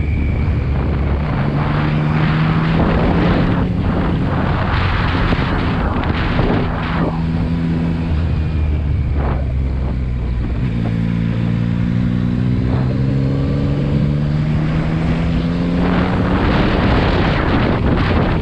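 Motorcycle engine running under way with heavy wind rush. The engine note steps between gears and climbs steadily from about halfway through as the bike accelerates.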